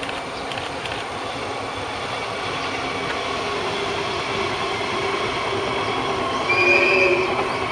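Train running along the track: a steady rumble with rail noise that grows slightly louder, and a brief tone sounding about seven seconds in, the loudest moment.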